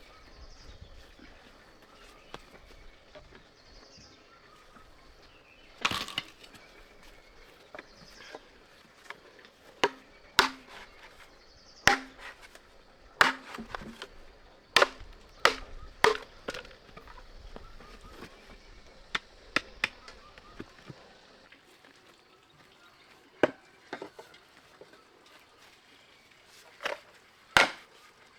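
Wood being chopped with a blade: sharp, irregular strokes, mostly a second or two apart, with a pause before a last few near the end.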